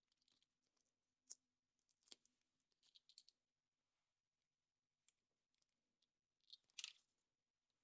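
Faint, scattered clicks and crinkly rustles of small plastic pieces being handled, as in opening a surprise egg's plastic capsule and its toy; the loudest crinkle comes near the end.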